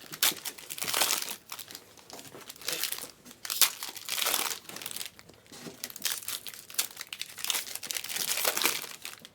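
Trading card pack wrappers and box packaging crinkling and tearing in repeated irregular bursts as packs are ripped open.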